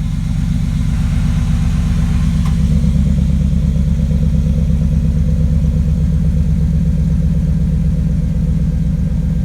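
2000 Dodge Ram 1500's 5.9-litre V8 idling steadily through a new Magnaflow exhaust with 4-inch tips, seconds after a cold start.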